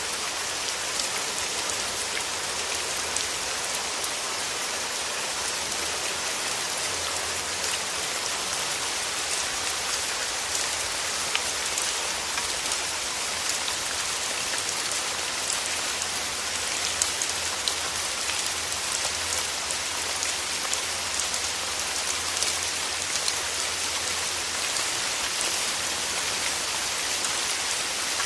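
Steady rain falling, with many close drop ticks pattering on surfaces.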